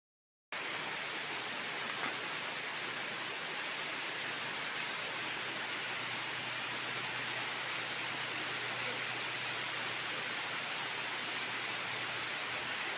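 Steady rushing of flowing water, starting abruptly about half a second in and holding an even level throughout.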